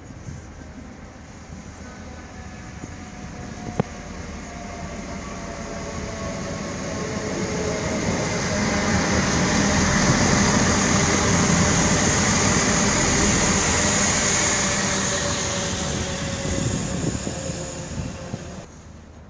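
A GWR passenger train passing close by: its running noise builds up gradually, stays loudest for several seconds with a high steady whine, then fades, while tones in its sound slide slowly down in pitch.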